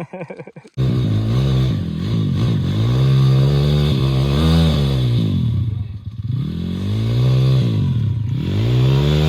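Pit bike's small single-cylinder four-stroke engine running hard, its pitch rising and falling in a few long swells as it is revved up and eased off. It cuts in abruptly about a second in.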